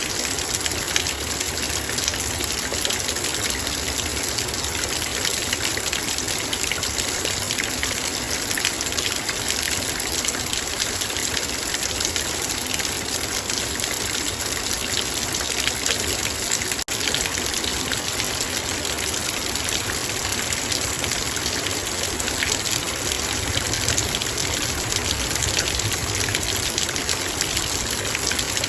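Heavy rain falling on a metal bowl: a dense, steady patter of raindrops striking the metal. The sound drops out for an instant about 17 seconds in.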